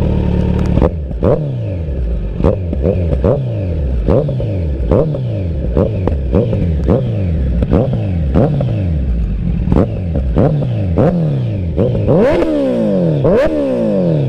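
Kawasaki Z900's inline-four engine breathing through a CS Racing stainless aftermarket exhaust. It idles briefly, then is blipped again and again, about two quick revs a second, each falling straight back. Near the end come two longer, higher revs.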